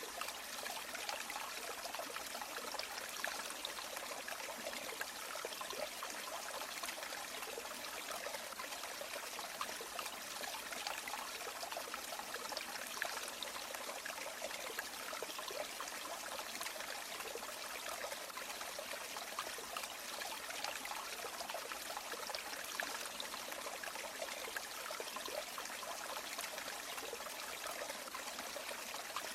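River water flowing and trickling steadily, an even, light rushing with little deep rumble.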